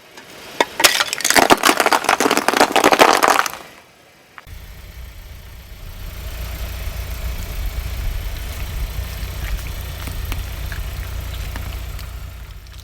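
Something crunchy cracking and crackling under a car tyre for about three and a half seconds. After a short pause, the car's engine runs steadily with a low rumble.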